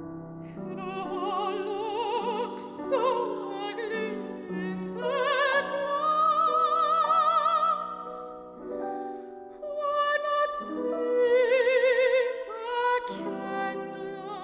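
Operatic soprano singing with a wide vibrato on long held notes, accompanied by piano.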